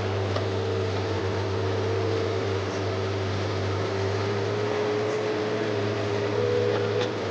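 Komatsu PC130F excavator running steadily: a deep engine hum with a steady hydraulic whine over it that wavers slightly in pitch.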